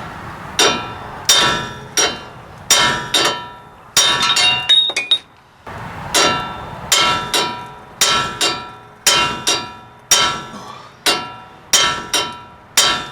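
Steel hammer blows on a punch against a seized kingpin in a truck's front axle: a long series of sharp metal-on-metal strikes, about one and a half a second, each ringing briefly. There is a cluster of lighter clinks and a short pause about a third of the way in, and the pin does not come free.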